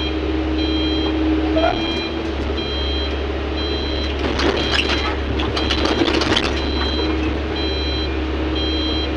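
Heavy mining machine's back-up alarm beeping about once a second over a steady diesel engine drone, with some clattering about halfway through.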